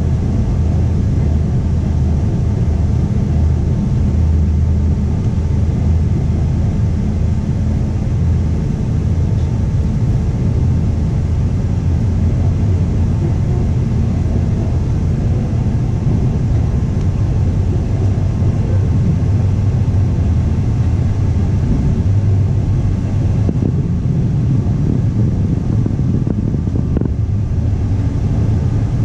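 Steady low rumble of a 25T passenger coach running along the track, heard from inside the coach.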